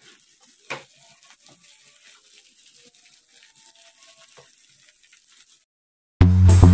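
Mutton sizzling and crackling faintly in a frying pan, with one brief louder knock about a second in. Near the end the sound cuts out, and loud electronic music with a steady beat starts.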